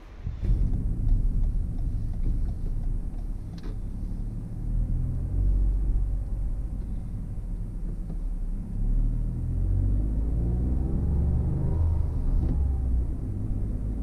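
Toyota GR Yaris's turbocharged three-cylinder engine heard from inside the cabin, pulling along at low speed with a low rumble. Its note rises and then falls in pitch in the second half.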